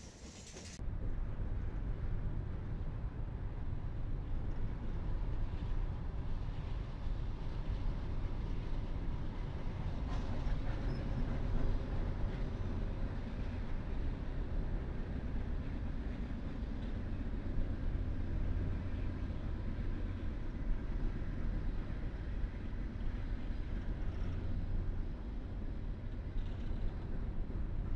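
Freight trains rolling past: empty coal cars on a steel girder bridge and a double-stack intermodal train below. Their wheels on the rails make a steady, deep rumble that cuts in about a second in.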